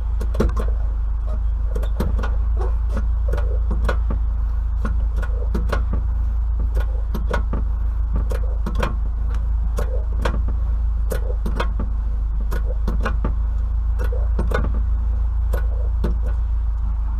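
Suspension fluid pump at work on an Austin Maxi's Hydrolastic suspension as it is pressurised: irregular clicks and knocks, about two to three a second, over a steady low hum.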